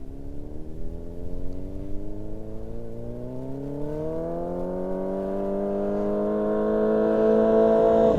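Yamaha R6 sport bike's inline-four engine accelerating out of a corner toward the listener, its pitch climbing for the first few seconds and then holding, the sound growing steadily louder as it approaches.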